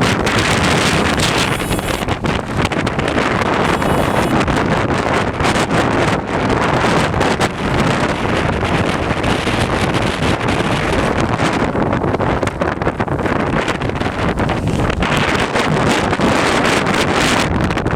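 Strong blizzard wind gusting and buffeting the microphone in a loud, continuous rumbling roar that rises and falls.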